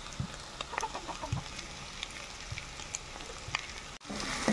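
Bitter gourd and egg fry sizzling faintly in an oiled pan, with a few short clucks from chickens.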